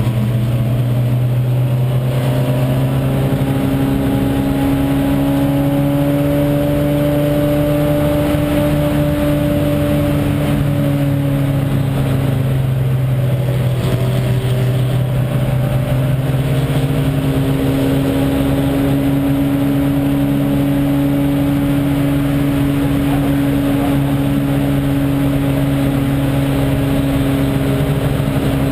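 VW Jetta race car's engine running hard at a steady high pitch, heard from inside the stripped cabin with wind and road noise; the engine note sags briefly about halfway through, then settles again.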